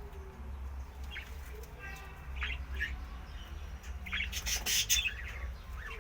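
Pet cage birds calling: short chirps through the first half, then a loud, harsh squawk about four and a half seconds in.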